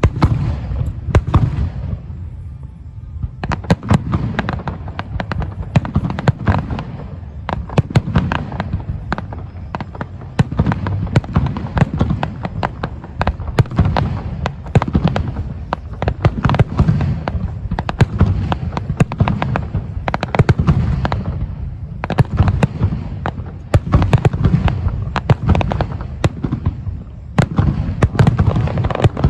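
Aerial fireworks exploding in a rapid, continuous barrage: deep booms overlapped by many sharp crackling reports, dropping off briefly about two seconds in before building again.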